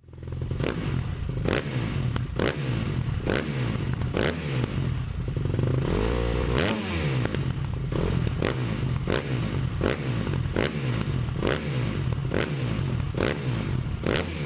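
Motorcycle engine running, with a sharp clatter repeating about twice a second and a rise and fall in engine pitch about halfway through.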